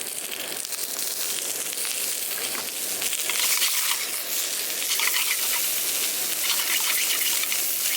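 Food sizzling in a frying pan, a steady high hiss with fine crackles that grows louder about three seconds in.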